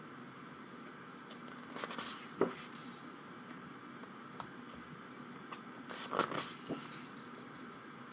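Pages of a large photobook being turned by hand: two short paper rustles, about two seconds in and about six seconds in, the first ending in a sharp tap.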